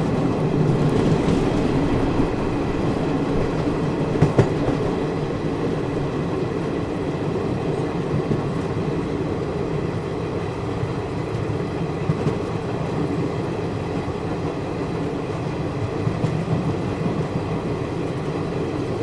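Passenger train coach running along the track: a steady rumble of the wheels on the rails with an occasional sharp clack, the loudest about four seconds in.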